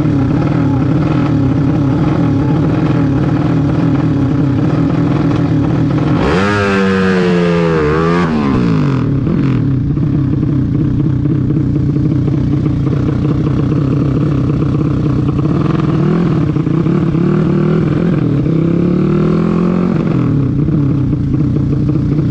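A vehicle engine running steadily, revved up sharply and back down about six seconds in, then raised and lowered a little twice more later on.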